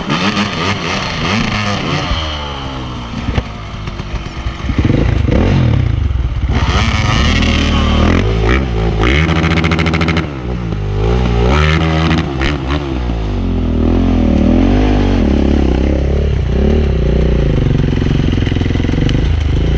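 Enduro dirt bike engine revving up and down again and again under a rider's throttle, louder from about five seconds in, with some clatter.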